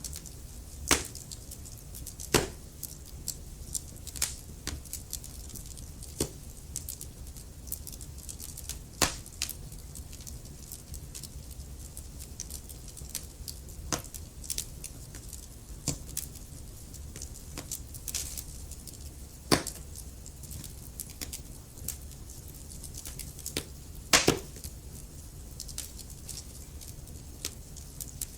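Wood fire burning in a fireplace: irregular sharp crackles and pops over a steady low rumble of flame, with the loudest pops about one, two and a half, nine, nineteen and a half and twenty-four seconds in.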